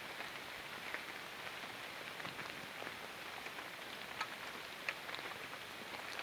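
Light rain pattering steadily, with scattered ticks of drops.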